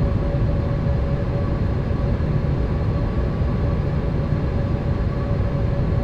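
Steady in-flight cabin noise of a Boeing 787 airliner: a low, even rumble of engines and airflow with a few faint steady tones above it.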